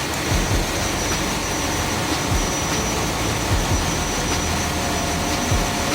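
Loud, steady machinery din of a ship's engine room, with the main engine running under emergency control from the engine-side stand. A few short low thumps sound now and then.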